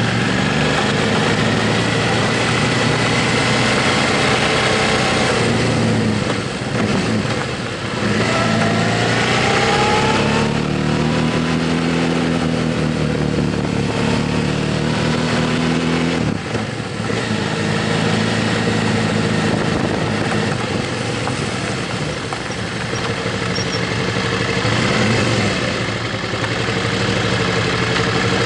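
Motorcycle engine running while riding, over a steady rush of noise. The engine note drops briefly and then climbs about eight seconds in, and dips again about sixteen seconds in.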